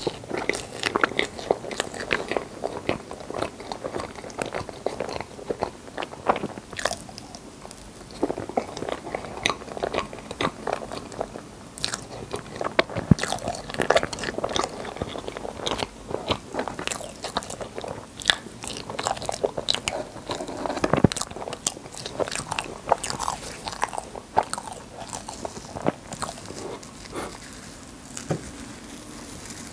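Close-miked chewing of rainbow crepe cake, with many small mouth clicks and smacks.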